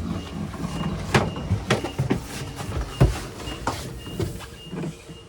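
A series of irregular wooden knocks and clunks from cabin lockers, doors and fittings being opened and handled.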